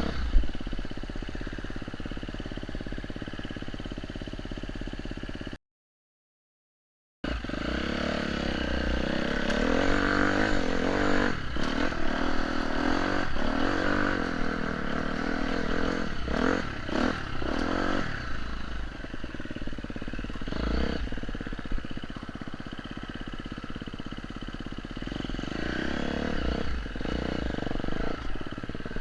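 Off-road motorcycle engine running under way, its revs rising and falling, with scattered knocks and clatter. The sound cuts out completely for about a second and a half, about six seconds in, then resumes.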